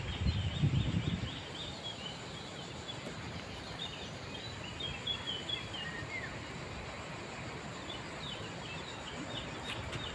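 Small birds chirping and singing in short, quick notes over a steady background hiss, with a brief low rumble in the first second or so.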